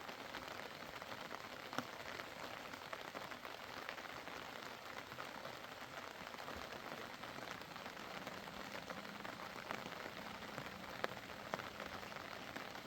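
A steady hiss like rain falling on a surface, with a few faint clicks scattered through it.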